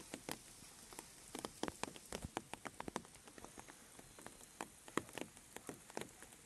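Light rain: single raindrops ticking close by at irregular moments, several a second, over a faint steady hiss of drizzle.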